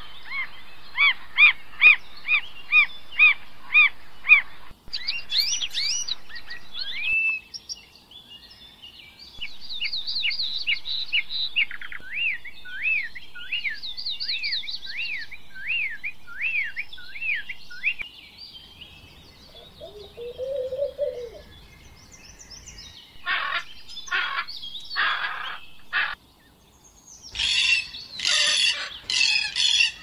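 Several kinds of bird calling in turn. It opens with a regular series of chirps, about two a second, followed by a run of downward-sweeping whistles. Near the end come loud harsh squawks.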